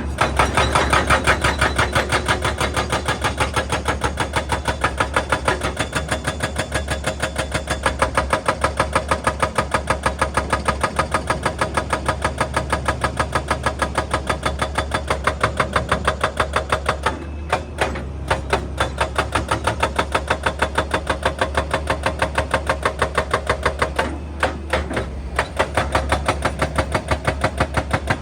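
Excavator-mounted hydraulic breaker hammering rock: a fast, even train of blows at several strikes a second over the excavator's engine hum, stopping briefly twice, about two-thirds and seven-eighths of the way through.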